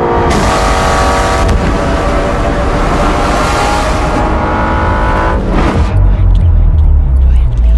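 The 2022 Aston Martin V12 Vantage's quad-cam 5.2-litre V12 revving up under acceleration, its note climbing steadily. About five and a half seconds in it breaks off and drops to a deeper, heavy rumble.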